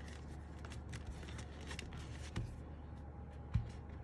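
Faint handling of a foam sheet and a keyboard case over a steady low hum. There are scattered light ticks, a small knock, and a sharper knock near the end.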